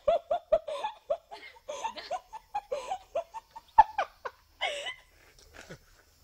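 A quick run of short, pitched laughing sounds, fading out about a second before the end.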